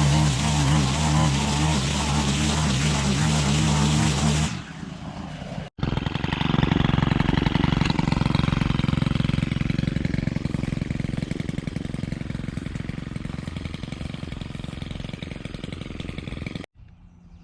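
A Stihl FS 131 brushcutter's engine running at full throttle, cutting grass, for about four seconds. It stops abruptly, and a lower, rougher rumble follows with slowly falling loudness before cutting off near the end.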